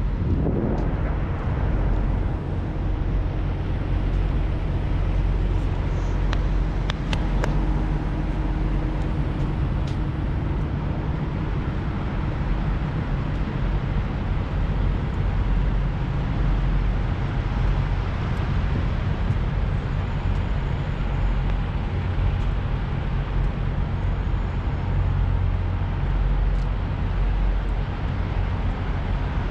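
Truck stop ambience: a steady low rumble of idling diesel semi-truck engines, with a few short clicks about six to seven seconds in.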